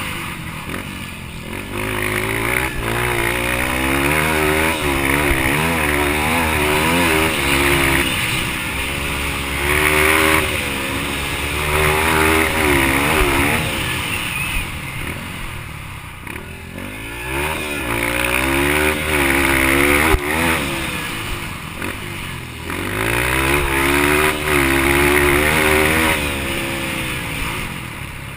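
Yamaha TTR230 single-cylinder four-stroke dirt bike engine racing on a dirt track. It revs up hard, then drops off, again and again, with the pitch climbing and falling every few seconds as the rider accelerates and backs off. A few brief knocks come through under it.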